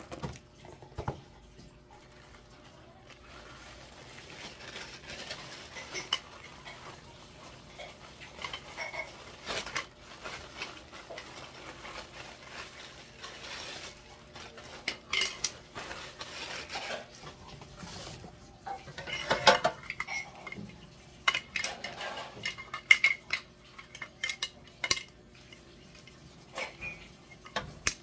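Irregular clinks, clacks and rattles of hard items being handled and set down, busiest and loudest in the second half.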